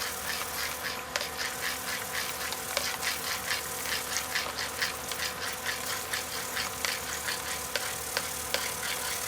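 Milled grain being stirred into hot strike water in the mash tun during dough-in: a quick, uneven run of short scraping strokes, several a second, over a steady hum.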